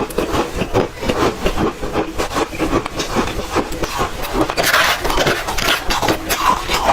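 Close-miked crunching and chewing of red ice, a dense run of rapid crackles and crunches that goes on without a break.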